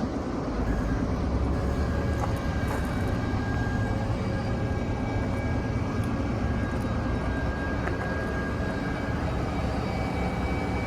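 Isuzu diesel engine of a GMC TopKick C7500 truck running steadily, with a faint steady high whine over the low engine sound.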